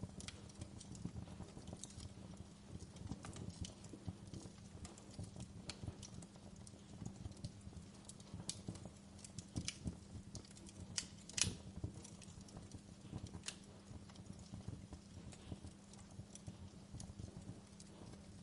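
Wood fire in a fireplace crackling, with irregular sharp pops and snaps, the loudest a little past halfway, over a low steady hum.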